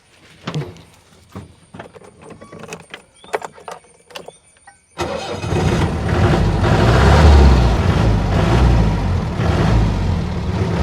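A few light clicks and knocks, then about halfway through a vehicle engine starts and settles into steady running.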